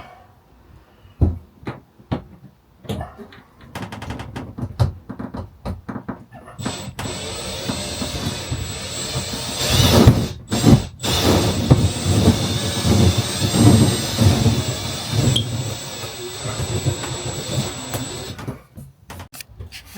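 Knocks and clicks of panel and screw handling, then about twelve seconds of a power tool motor running with a thin high whine, stopping briefly twice partway through.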